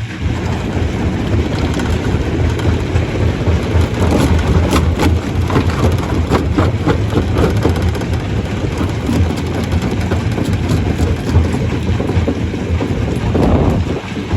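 Stone crusher running under load: a loud steady rumble with the cracking and clatter of rocks being broken, most frequent a few seconds in.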